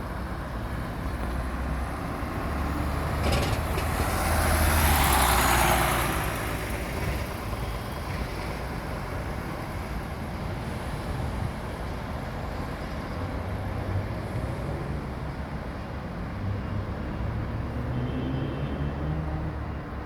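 Scania N94UD double-decker bus running, with its diesel engine's low note. About four to six seconds in there is a louder rushing noise, and near the end the engine note rises.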